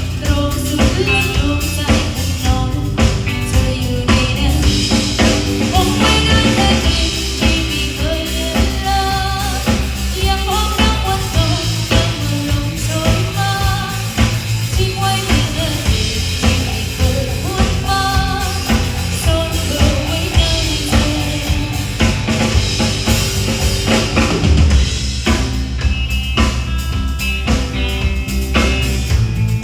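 Live band playing a song at a sound check: drum kit keeping a steady beat, with bass and a melody line over it.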